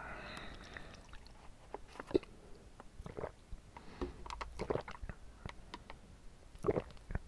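Close-miked chewing of bubble tea's tapioca pearls: irregular soft wet squishes and mouth clicks.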